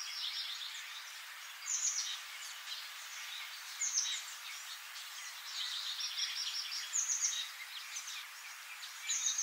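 Birds chirping and trilling over a steady outdoor hiss, with a loud short falling call about every two seconds.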